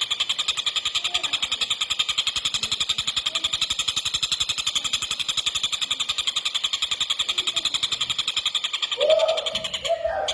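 Tengkek buto bird calling in a fast, unbroken run of closely spaced, high, rattling notes, about a dozen a second. About nine seconds in, a louder, lower sound briefly cuts across it.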